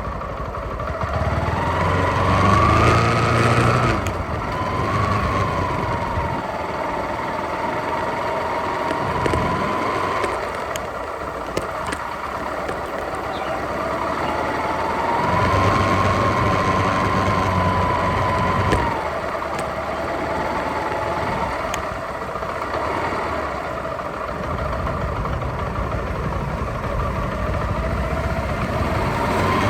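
Motorcycle engine running while riding, its note rising and falling as the throttle opens and eases off, over a steady rush of wind and road noise. It swells louder twice, near the start and about halfway through.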